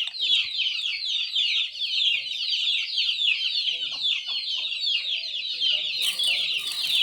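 A brood of chicks peeping constantly: many short, high, falling peeps overlapping in a dense chorus.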